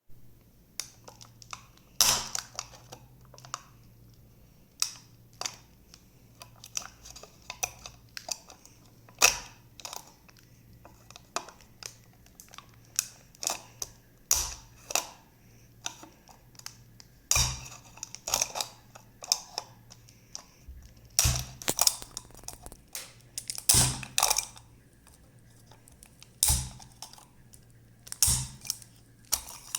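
Irregular sharp clicks and taps, dozens in all with no steady rhythm, a few much louder than the rest, over a faint low hum.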